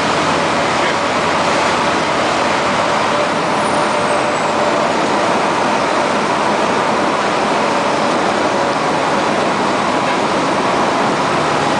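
Steady engine and road noise of a fire truck under way, an even rushing drone at a constant level.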